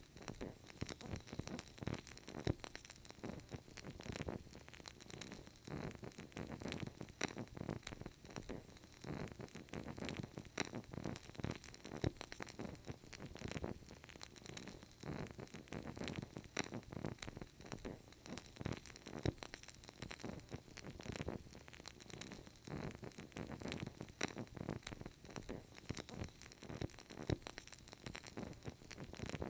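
Burning candle crackling softly: small irregular pops and ticks from the flame and wick over a faint steady hiss.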